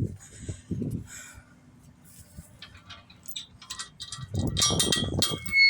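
Metal clinking and rattling: a few scattered clicks, then a busy rattle about four seconds in, ending in a brief ringing clink.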